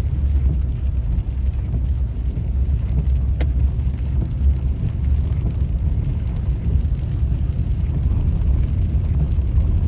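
Steady low rumble of a car being driven, heard from inside the cabin, with one short click about three and a half seconds in.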